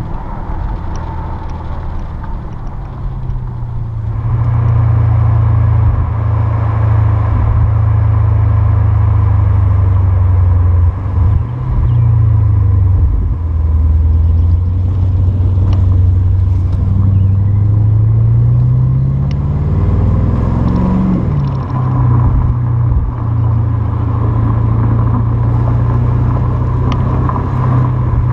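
A 2013 BMW 750Li's 445 hp V8 is driving through Flowmaster 50 Series Delta Flow mufflers with a steady, deep exhaust drone. The drone grows louder about four seconds in. Past the middle the engine note climbs for a few seconds under acceleration, then drops back suddenly as the gearbox shifts up.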